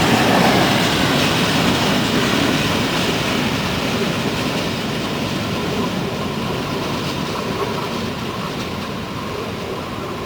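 A freight train rolling along the rails of a main-line railway, its noise growing steadily quieter as it moves away.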